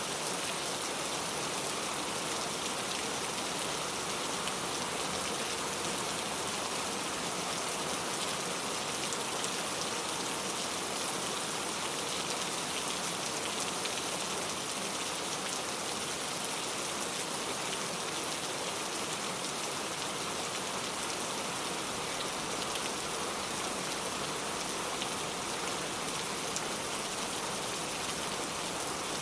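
Steady rain falling, with fine pattering drops and no thunder or birds heard.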